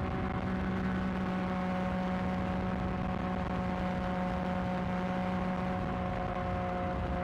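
Yamaha XSR900's inline-three engine running at a steady cruise through a newly fitted aftermarket exhaust, its even note easing very slightly lower in pitch.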